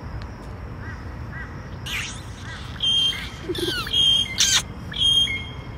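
Birds calling. Faint short chirps at first, then from about two seconds in a run of loud calls: short held notes, falling whistles and a sharp chirp, coming roughly once a second.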